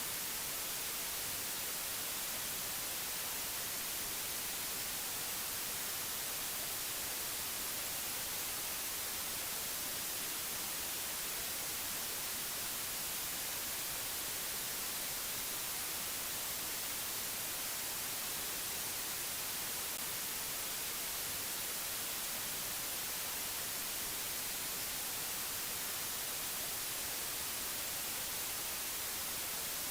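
Steady white-noise hiss with no tones or clicks in it, heaviest in the highest pitches and never changing in level.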